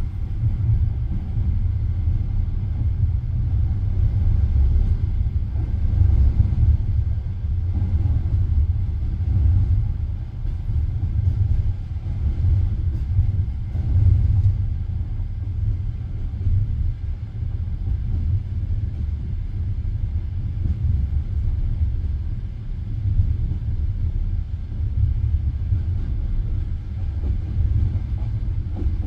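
Steady low rumble of a moving passenger train carriage, heard from inside the car.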